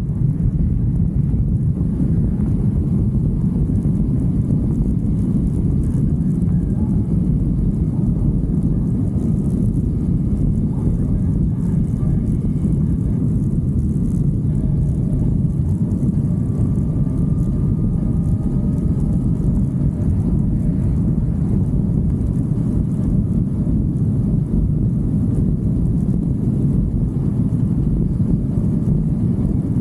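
Steady low rush of wind and motorcycle running noise picked up by a microphone on a moving motorcycle, with no pauses or changes in level.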